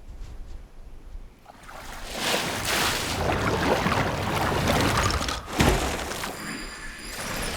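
Sound-designed rushing surge like water or wind. It swells up out of a low rumble about a second and a half in and holds loud, with one heavy low impact a little past the middle.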